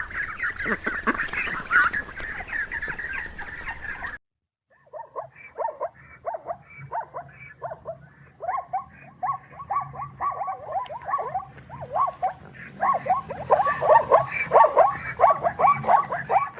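Animal calls in two clips: a dense chorus of calls that cuts off abruptly about four seconds in, then, after a short gap, a long rapid run of short repeated calls that grows louder toward the end.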